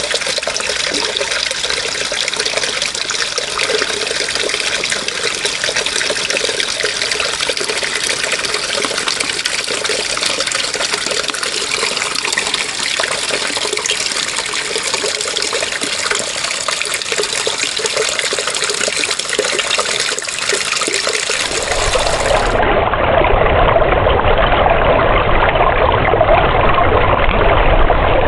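Running water, a steady trickle and splash. About three-quarters of the way through it switches abruptly to a louder, deeper rush of flowing water.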